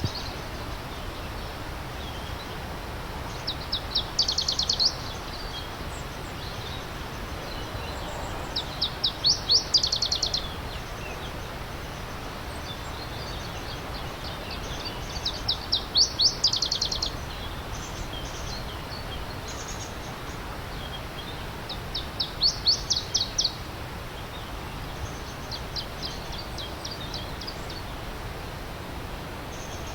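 A songbird repeating a short, rapid trill of high notes about every six seconds, five times, over the steady rush of stream water.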